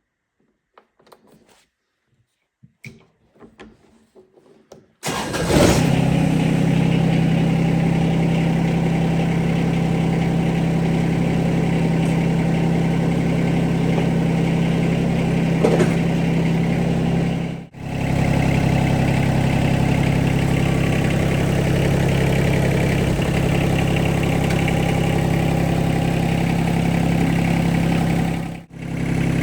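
A few faint clicks, then about five seconds in the John Deere 2320 compact tractor's three-cylinder diesel engine starts and runs steadily. The sound cuts out briefly twice.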